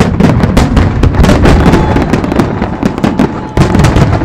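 Fireworks display: a dense barrage of aerial shell bursts, rapid bangs and crackling over a low rumble. It starts suddenly and loudly, with a brief lull about three and a half seconds in.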